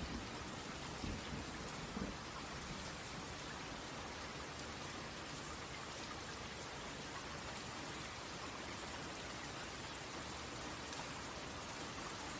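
Steady rain falling, with a low rumble of thunder in the first couple of seconds.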